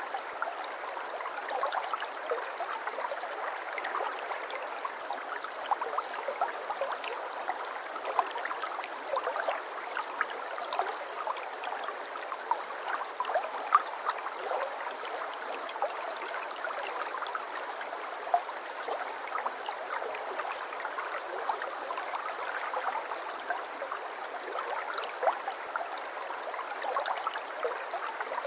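A small brook babbling steadily over stones: an even rush of water sprinkled with many small, quick gurgles and drips, with no deep rumble.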